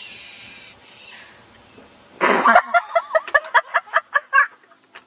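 A bird's loud harsh squawk about two seconds in, followed by a rapid run of short clucking calls, about five a second.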